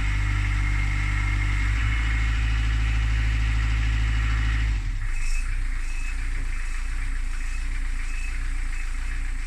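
Narrowboat's Beta Marine diesel engine running steadily after a restart, sounding good following work on an air-in-the-fuel starting problem and a new fuel lift pump. About five seconds in the deep low note drops away and it runs on with a lighter sound.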